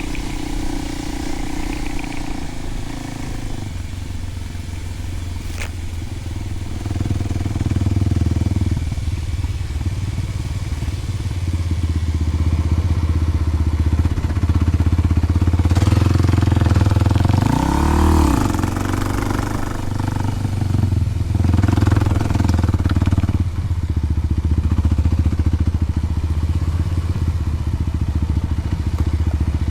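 Kawasaki KLX300's single-cylinder four-stroke engine running through a Delkevic 10-inch oval slip-on exhaust at low revs, getting louder a few seconds in. A little past halfway there is one quick rev that rises and falls back.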